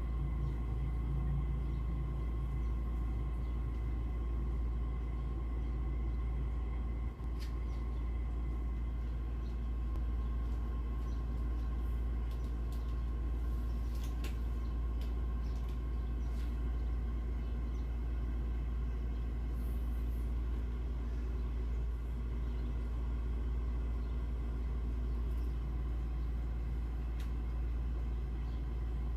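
Steady low rumble with a faint even hum and a few light clicks.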